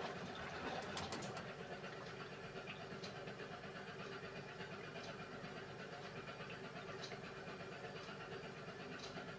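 Beko WMY81283LMB2 washing machine running its hand wash cycle: a steady motor hum as the drum turns, with faint clicks about every two seconds.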